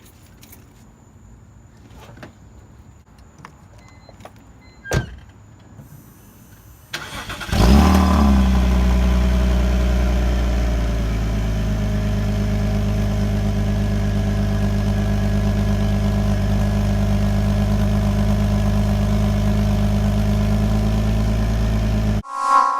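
A few light clicks, then a car engine cranks briefly and starts about seven seconds in. It flares up in revs as it catches, then settles into a steady idle, which cuts off abruptly near the end.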